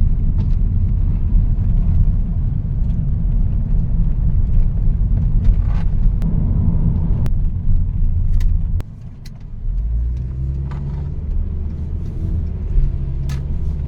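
A car's steady engine and road rumble while driving, which drops off suddenly about nine seconds in and gives way to a quieter, steadier engine hum as the car slows, with a few light clicks throughout.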